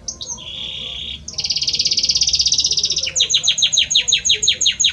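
Belgian canary singing: a short buzzy trill, then a long, very fast trill, then from about three seconds in a run of quick falling whistled notes, roughly seven a second.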